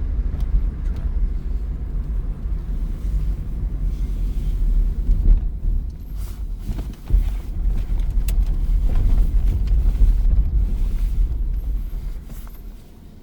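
Moving car heard from inside: a steady low rumble of engine and tyre noise that falls away sharply near the end.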